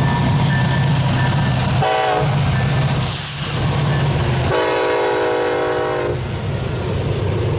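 Diesel freight locomotive horn: a short blast about two seconds in and a longer blast of about a second and a half from about four and a half seconds in, over the steady low rumble of the passing train. A brief hiss comes around three seconds in.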